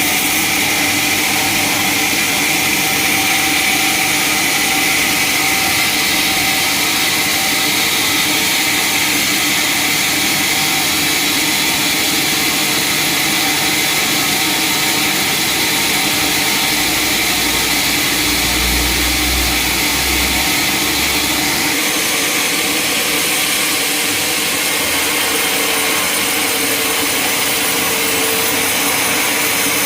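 Sawmill saw running steadily, a continuous high-pitched whine over a noisy hiss. A low rumble joins in for a few seconds a little past the middle.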